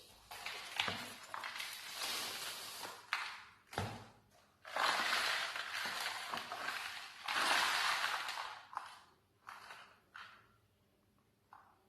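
Packaging being handled: long stretches of crackling, crinkling rustle with sharp clicks and knocks in between, going quieter near the end.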